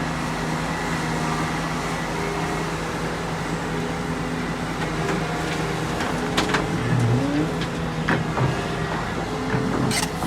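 Heavy diesel engine of earthmoving machinery running steadily, with several sharp metallic clanks and knocks in the second half.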